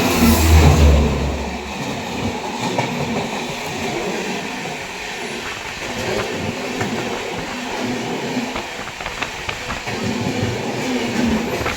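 Express train running at speed, heard from on board: a steady rumble of wheels on the rails with scattered light clicks, heaviest in the first second or so.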